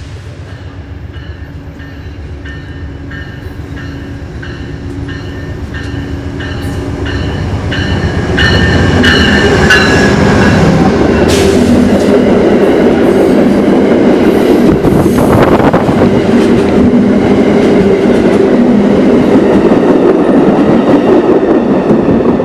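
Diesel-hauled train approaching and passing close by, the sound building over the first eight seconds and then staying loud with wheel and rail noise. A bell rings steadily about twice a second during the approach.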